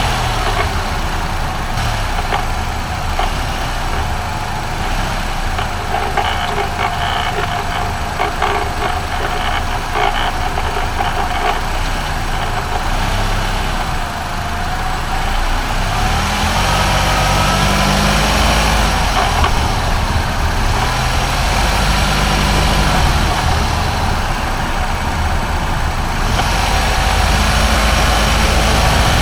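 Nissan X-Trail T31 running with a strange noise that the owner suspects comes from the propeller shaft. About halfway in the sound grows louder and a faint rising whine joins it.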